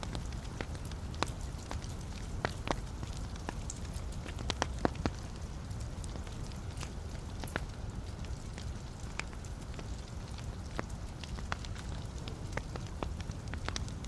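Wood fire burning in a fireplace: a steady low rush of flame with irregular sharp crackles and pops from the burning logs, a few louder pops among them.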